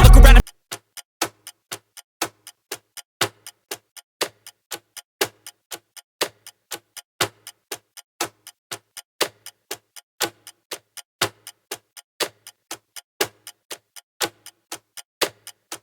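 Music cuts off about half a second in, then a clock ticking sound effect: about four ticks a second, with a louder tick once a second.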